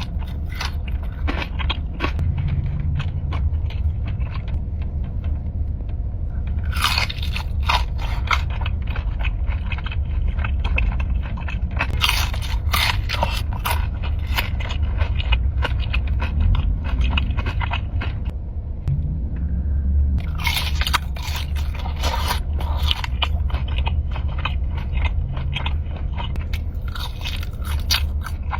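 Close-miked mukbang eating: crunchy food bitten and chewed, with runs of sharp crackling crunches starting about 7, 12 and 20 seconds in, over a steady low rumble.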